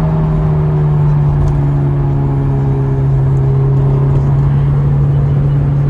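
Honda S2000's four-cylinder engine running at steady speed, its drone holding one pitch that sags slightly, over low road rumble.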